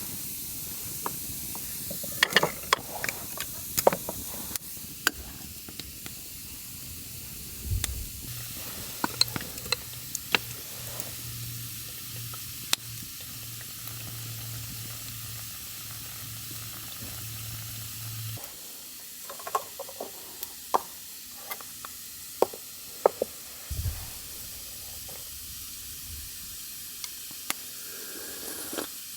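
Sizzling hiss from cooking over a wood campfire, with scattered crackles and pops and a couple of low thuds.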